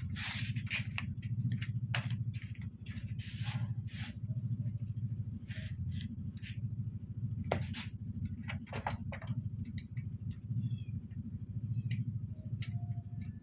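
A steady low hum with scattered clicks and scrapes, like small parts being handled, densest in the first few seconds and again past the middle.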